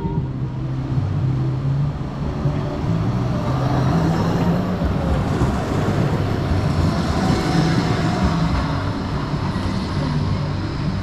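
Blackpool heritage tram running past the stop, a steady low hum and rumble that grows louder through the middle and eases near the end.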